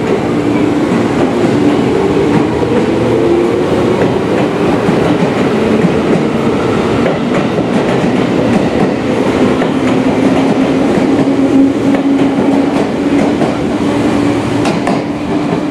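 JR 211 series electric train pulling out past the platform, its motors whining in a tone that rises in the first few seconds, with wheels rumbling and clacking over the rail joints as the cars go by. A few sharp clacks come near the end as the last car passes.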